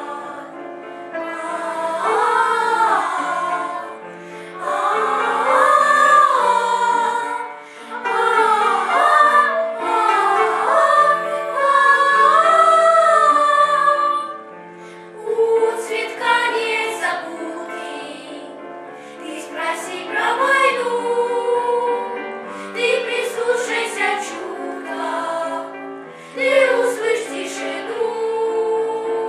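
A vocal ensemble singing a song over an accompaniment, with long held notes. The singing turns softer after about fifteen seconds.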